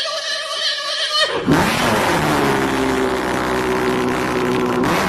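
Muscle car cold start in winter: the starter motor whines steadily for a little over a second, then the engine fires with a loud burst and catches. It settles into a steady fast idle.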